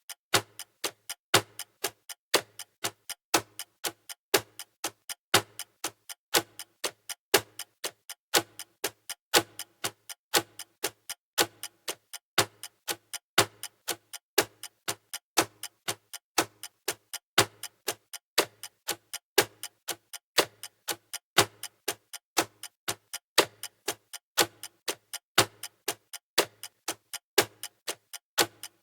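Clock ticking sound effect of a countdown timer: steady, evenly spaced ticks, some louder and some softer in a regular pattern.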